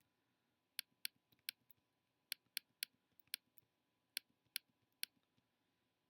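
Computer mouse clicking, about ten sharp separate clicks at an uneven pace, some in quick pairs, over a near-silent room.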